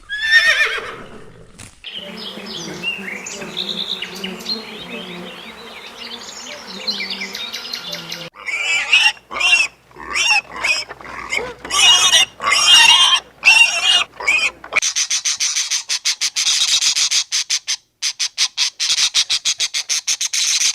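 A run of different animal calls: a falling cry at the start, then chirping over a low steady hum, then a series of separate short calls, and for the last several seconds a fast train of high clicks.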